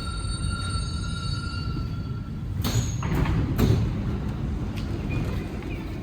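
Alstom NS-16 metro car heard from inside, coming to a stop: a low running rumble with high steady whining tones that cut off about two seconds in, followed by a few short noisy surges.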